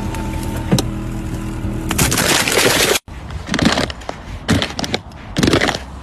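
A steady mechanical hum, then a loud scraping rush; after a sudden break comes a string of irregular crunching, cracking noises.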